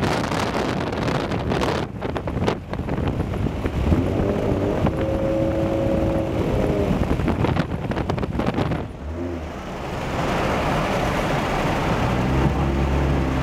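A 2011 Ford Mustang's 3.7-litre V6 running loud through a Roush axle-back exhaust while driving. It pulls with its pitch rising and falling, dips briefly about nine seconds in, then settles into a steady low drone.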